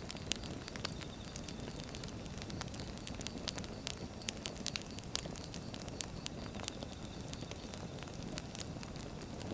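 Wood fire burning, with a steady low rumble of flames and frequent irregular pops and crackles from the burning logs.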